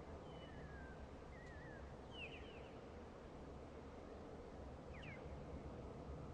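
Birds chirping and whistling: short separate calls, including a quick run of three or four downward-sweeping chirps about two seconds in and a pair about five seconds in, over a faint steady low rumble.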